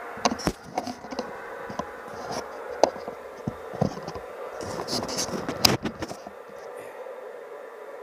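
Irregular clicks and knocks of hands handling the CB radio and microphone, coming thickly for about six seconds and then stopping, over a steady background hum.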